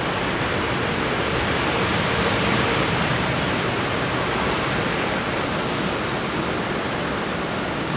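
Steady rushing noise of a Boeing 787-8 Dreamliner jet airliner and the air around it, even throughout, with a faint high whistle for a few seconds in the middle.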